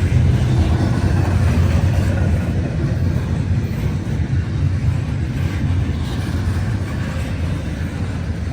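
Freight train rolling past: a steady low rumble of wheels on rail, easing slightly toward the end.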